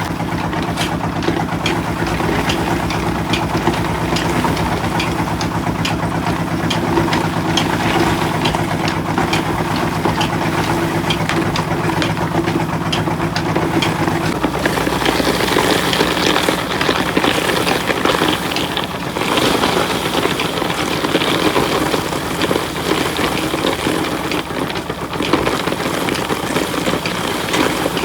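Engine-driven rock salt crushing machinery running, a steady hum under constant rapid knocking and rattling. About halfway in the hum drops away and a harsher, noisier grinding takes over.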